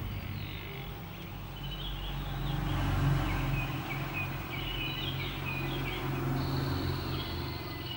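Wild birds chirping in short wavering phrases over a steady low hum, heard through a TV speaker; a thin high steady tone joins near the end.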